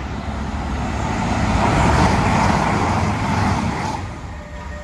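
A train passing at speed: a rushing wheel-and-rail noise that builds to a peak about two seconds in and fades away near the end.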